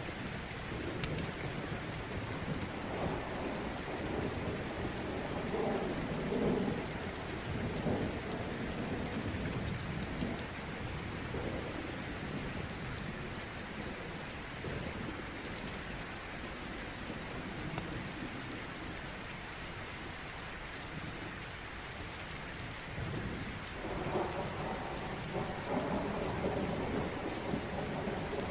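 Steady rain falling, with low thunder rumbling a few seconds in and again near the end. Small crackles from a fireplace run through it.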